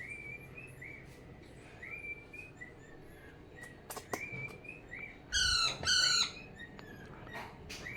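Pet parrot chirping softly in short, slightly rising notes, then giving two loud, harsh calls about five and a half and six seconds in. A few sharp clicks come around four seconds in.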